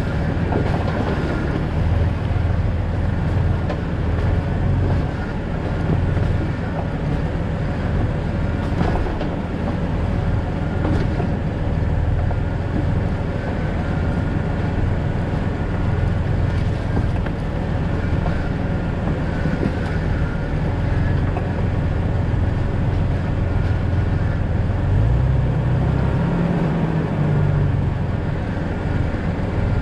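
2000 Jeep Cherokee XJ driving, a steady low engine and road rumble. About 25 seconds in, the engine note rises, holds briefly and falls back.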